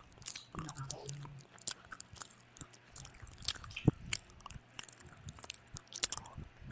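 Close-miked chewing and biting of food: irregular wet clicks and crisp crunches, with a sharp crunch about four seconds in.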